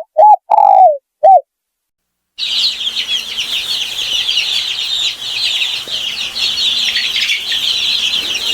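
Four short pitched animal calls in the first second and a half, then, after a pause, a dense, continuous chirping of many small birds at once.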